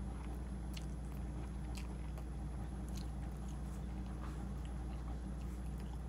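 Chewing a mouthful of ramen noodles, with small scattered clicks, over a steady low hum.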